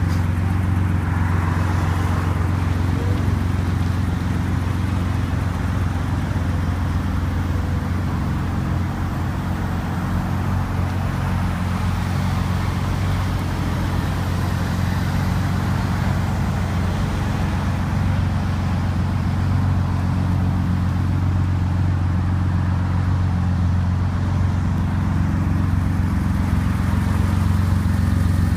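Air-cooled 2.7-litre fuel-injected flat-six of a 1973 Porsche 911T, taken from a 1977 911S, idling steadily with a low, even hum.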